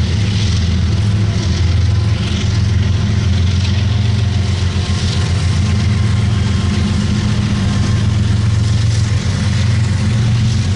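Diesel locomotive engine running loudly as a steady low drone, with a hiss of higher noise over it.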